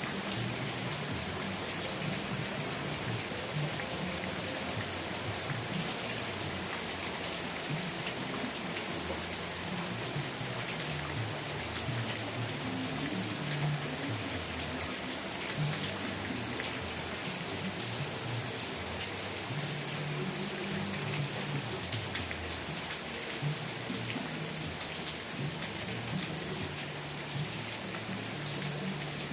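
Steady rain falling, a dense even hiss scattered with sharp drop ticks, over a low rumble that swells and fades several times.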